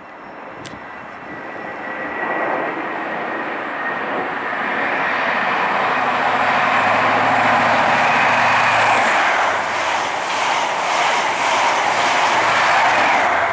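High Speed Train led by a Class 43 diesel power car approaching and running through at speed. Its engine grows steadily louder, then the rush of the Mk3 coaches going by takes over, with a rapid run of wheel clicks near the end.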